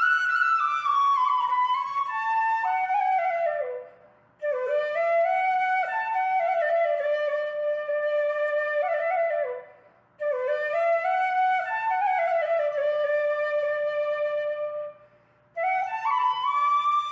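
Background music: a solo flute melody played in phrases of about five seconds, with brief pauses between them.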